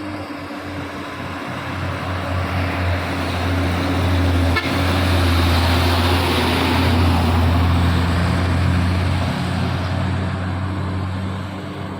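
Diesel engine of a loaded Hino 500 coal truck labouring uphill at close range with a steady low drone, growing louder as it passes by about halfway through and then easing off.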